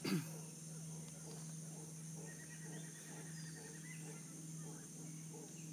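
Rainforest ambience: a steady high insect drone with faint animal calls, and a rapid trill lasting about two seconds from a couple of seconds in. A short knock sounds at the very start.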